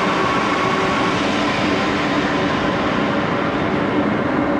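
Axelson engine lathe running at its top spindle speed, a steady mechanical drone with a faint whine that holds even throughout.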